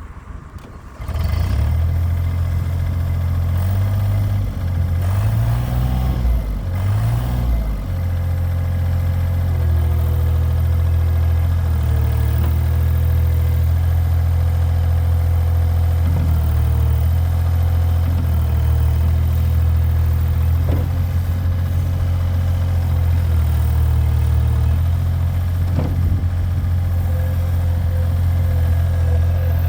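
Gehl 4635 SX skid steer's 43 hp Deutz diesel engine running, coming up sharply in level about a second in. Its speed rises and falls for the first several seconds, then settles into a steady run with a few small shifts in pitch.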